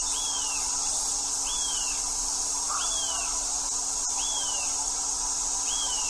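A bird calling: a short, clear note that rises and falls, repeated five times about every one and a half seconds, over a steady high hiss.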